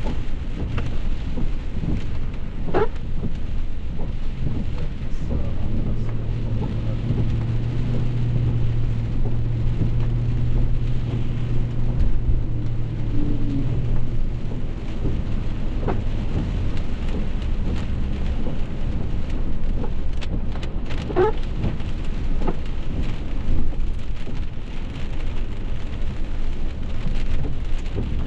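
Heavy rain pouring steadily over a deep low rumble, with a faint steady hum in the middle of the stretch.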